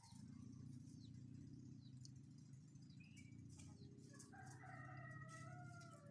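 A steady low hum throughout, with a rooster crowing faintly about four seconds in: one drawn-out call, slightly falling in pitch.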